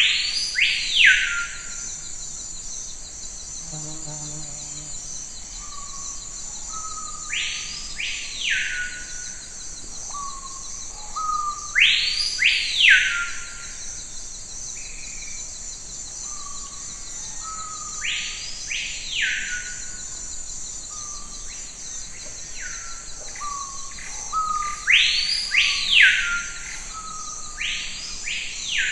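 A forest bird calling about six times, several seconds apart. Each call is a short low note followed by a loud call that sweeps up and back down within about a second. A steady high insect drone runs beneath.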